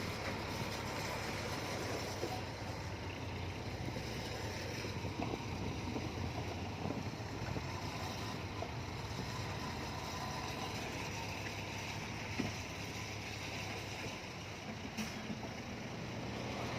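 Diesel engine of heavy earthmoving equipment running steadily, a low even drone, with a faint knock about twelve seconds in.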